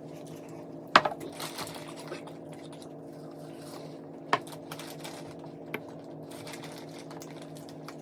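Sharp clicks and taps while eating a meat and rice meal: a loud click about a second in, another a little past four seconds, and a smaller one near six seconds, over a steady low hum.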